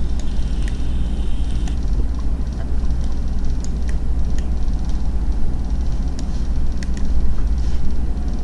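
Steady low hum of background noise, with a dozen or so short, sharp clicks scattered irregularly through it.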